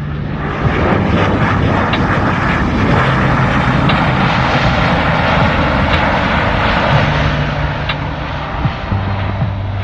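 An airplane passing, its engine noise swelling to a loud rush through the middle and easing off toward the end.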